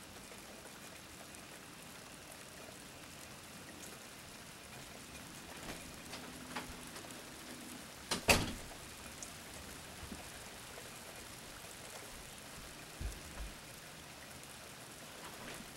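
Steady rain during a thunderstorm, with a few scattered ticks and one sharp, loud click about eight seconds in, then two short low thumps a few seconds later.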